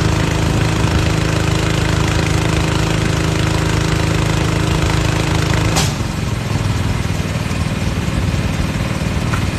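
Air compressor's engine running steadily, then a short sharp hiss about six seconds in, after which the engine note drops lower and it runs a little quieter.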